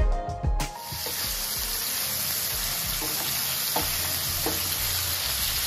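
Cubes of yellowfin tuna sizzling steadily in hot oil in a nonstick pan, with a few soft knocks as a wooden spatula stirs them. Music plays at the start and cuts off under a second in.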